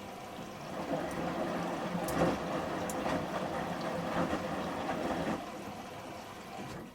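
Samsung front-loading washing machine in its final rinse: the drum tumbles the shirts through the rinse water with an uneven sloshing and splashing that swells about a second in and eases off after about five seconds as the drum slows.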